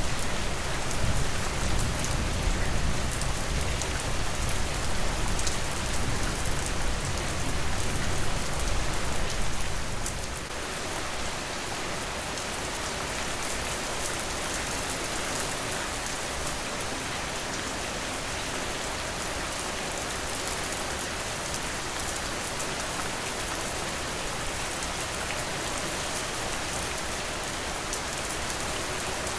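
Steady rain falling on a surface, an even hiss of many drops. For about the first ten seconds a low rumble sits under the rain, then dies away.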